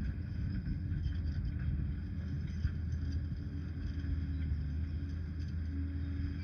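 Diesel engine of a Liebherr PR 746 crawler dozer running steadily with a low rumble.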